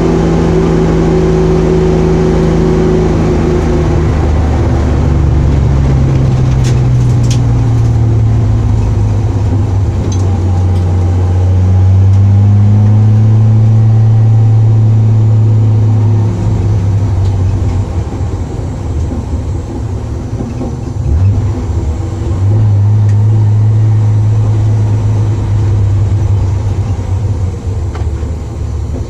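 Opel Commodore A's six-cylinder engine heard from inside the cabin, running at low to moderate revs as the car drives at slow speed. Its pitch falls over the first few seconds and then holds steady; the sound eases off for a few seconds past the middle, then the engine pulls again.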